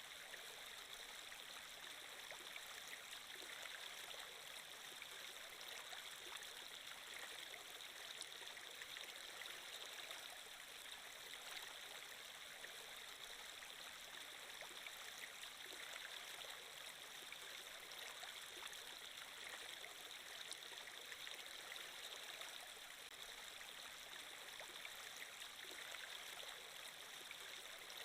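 Steady, fairly quiet flowing-water ambience like a babbling stream, used as a background sound effect.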